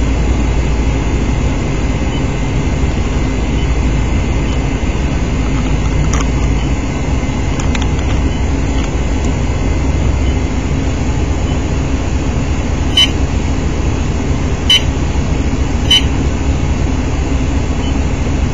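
Steady low rumble of a vehicle running, with three short high beeps in the second half.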